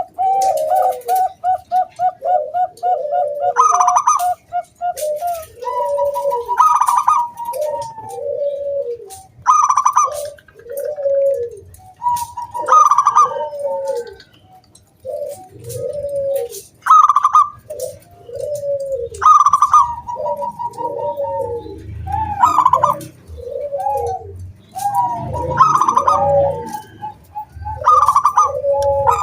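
Zebra dove (perkutut) cooing: a rapid stuttering trill, then a phrase repeated about every three seconds, each a higher note followed by lower rounded coos.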